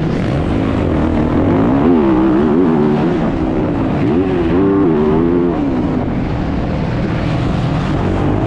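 Motocross bike engine revving, its pitch rising and falling again and again under throttle, with a rough rushing noise beneath.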